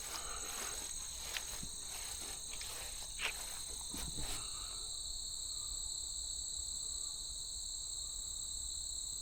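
Steady chorus of insects, crickets or katydids, shrilling in two high steady bands. A few faint short knocks are heard in the first half.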